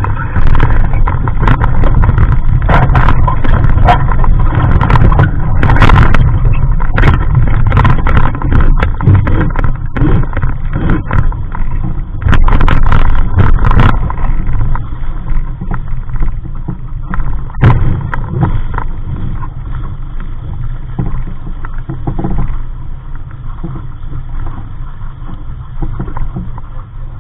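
Water rushing and slapping against the hull of a Capri Coronado 15 sailboat under way in waves, heavy with wind rumble on the microphone and with frequent sharp splashes and knocks. The rush eases somewhat in the last third.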